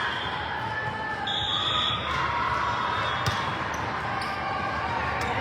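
Indoor volleyball play in a gym hall: a few sharp ball hits and bounces over a steady murmur of spectators' voices.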